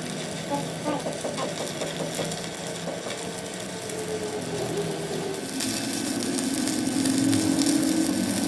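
A workshop machine running with a steady hum, joined by a hiss from about halfway through.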